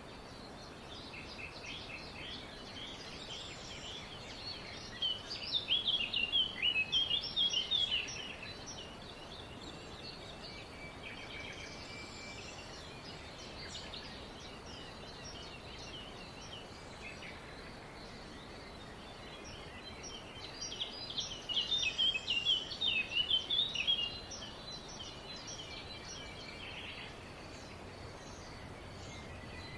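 Several songbirds chirping and singing over a steady background hiss. Two louder bursts of rapid, twittering song come about five seconds in and again about twenty seconds in, each lasting about three seconds.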